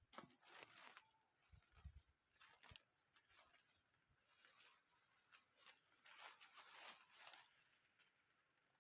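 Faint, irregular rustling and scraping, with a few soft low thumps about two seconds in.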